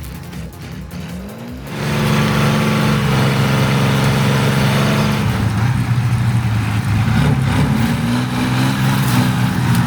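Kirovets K-701 tractor's diesel engine revving up sharply about two seconds in, then running hard under heavy load, its pitch wavering and climbing again near the end.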